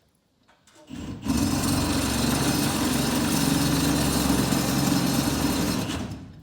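A small motor runs steadily and loudly for about five seconds, starting about a second in and stopping near the end.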